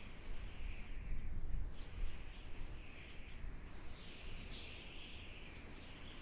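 Outdoor wildlife ambience: a steady high-pitched chorus of animal calls over a low rumble that eases after about two seconds.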